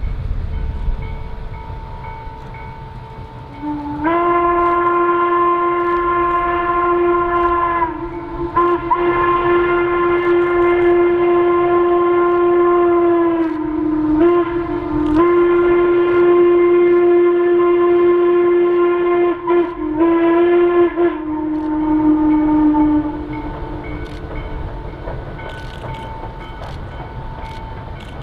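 A locomotive whistle sounding long, long, short, long blasts, the grade-crossing signal, followed by a shorter blast that trails off, with the low rumble of the train underneath.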